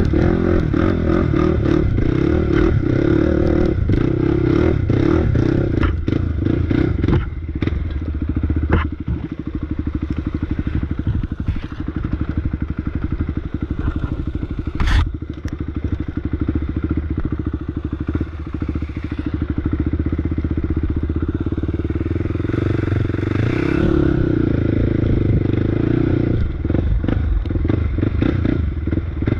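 Off-road motorbike engine running as it is ridden along a rough trail, easing off and picking back up, with clatter and knocks from the bike over the terrain and one sharp knock about halfway through.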